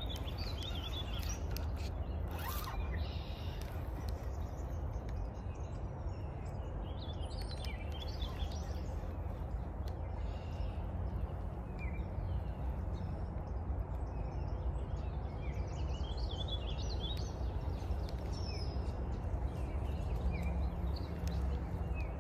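Small birds chirping and singing on and off, short calls scattered throughout, over a steady low rumble.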